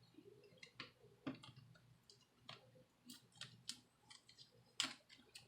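Faint, scattered small clicks and crackles of tape being peeled off a mini wireless speaker's plastic case by hand, the loudest just before the end.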